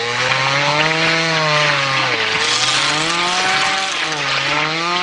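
Chainsaw engine revving hard, its pitch swinging up and down several times as it is worked.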